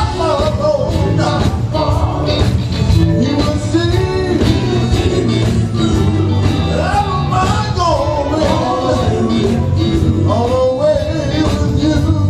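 Live gospel band playing an up-tempo number: a steady drum beat and bass, with a lead melody sliding between notes above them.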